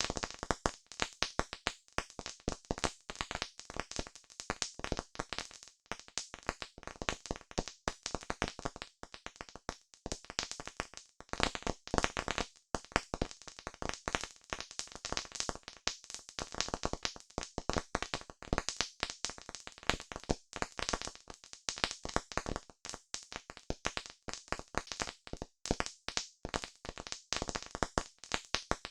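Campfire crackling: a dense, irregular run of sharp pops and snaps from the burning wood.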